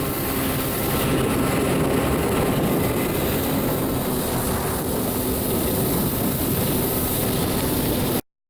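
Kawasaki 650SX stand-up jet ski's two-stroke twin engine running steadily under way, with a rushing noise over it; the sound cuts off abruptly near the end.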